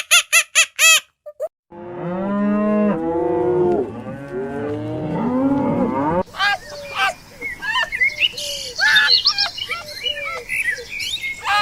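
Several cattle mooing at once, long overlapping low calls, after a brief run of short rapid calls in the first second. About halfway through the sound changes to a crowd of shorter, higher-pitched calls.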